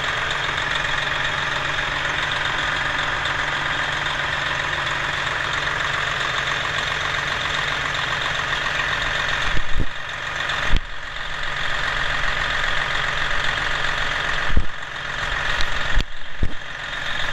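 Detroit Diesel Series 60 12.7-litre inline-six diesel idling steadily. About ten seconds in, the sound drops lower and several loud, sharp knocks come over it.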